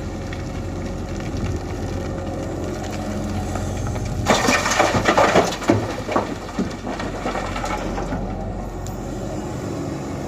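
Tata Hitachi EX120 tracked excavator's diesel engine running steadily; about four seconds in, a bucket load is tipped into the truck bed with a loud crunching clatter that lasts under two seconds.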